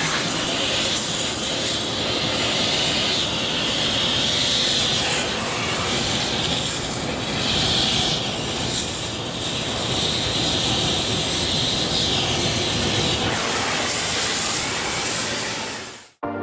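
Handheld torch flame burning with a steady roaring hiss that swells and eases every second or two, heating a differential bushing to loosen it after pressing it out failed.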